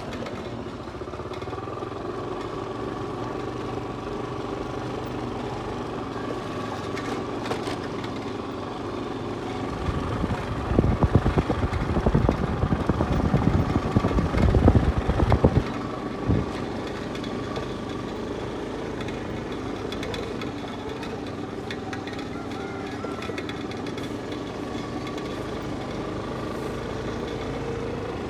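A steady mechanical drone with several held tones. A loud, rough, rattling rumble swells about ten seconds in and stops about six seconds later.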